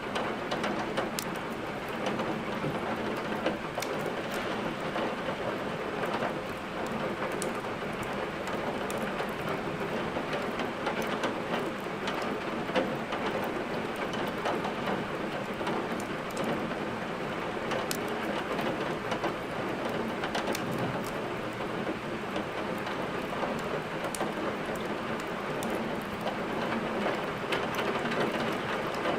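Steady rain falling, with scattered sharp crackles and pops of burning firewood in a fireplace.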